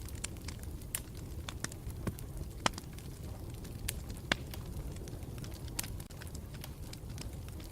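Campfire burning with a steady low rumble and irregular sharp crackles and pops, a couple of them louder than the rest.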